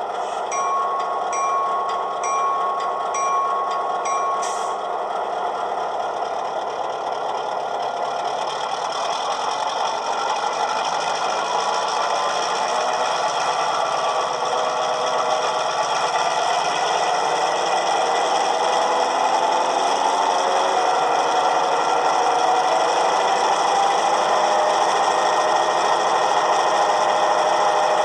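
HO-scale GP18 model locomotive's ESU LokSound V5 sound decoder playing a diesel locomotive's sounds through its small onboard speaker: a bell rings in regular strokes for the first few seconds over the idling diesel engine, which then revs up slowly through the throttle notches.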